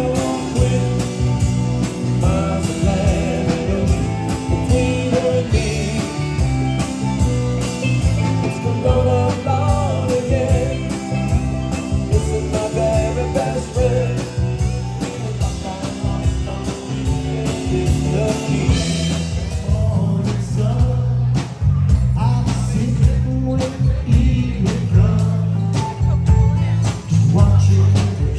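A band playing a country-rock song with a singer, over a steady drum beat and bass.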